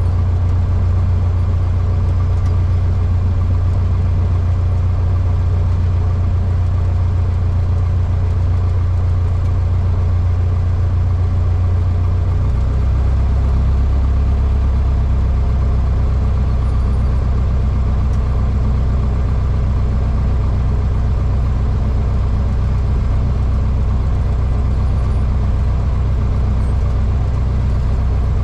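Cessna 152's four-cylinder Lycoming O-235 engine and propeller droning steadily in flight. About twelve seconds in, the low hum steps down in pitch and holds there, as the engine is throttled back to lower revs.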